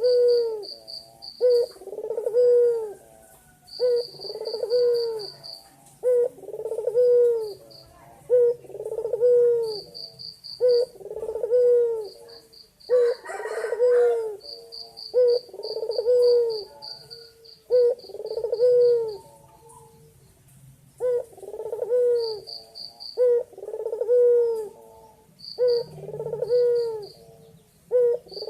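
White Barbary dove (puter putih), a male, cooing over and over with a call every one and a half to two seconds, each coo a low note that rises and falls. Short runs of a fast, high pulsing trill sound between the coos.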